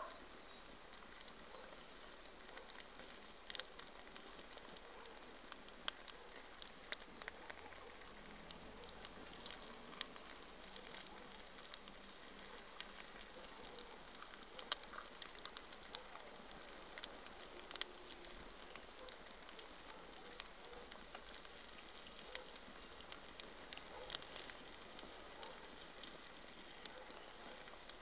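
Wood bonfire crackling: many sharp, irregular pops and snaps over a faint steady hiss of the burning fire.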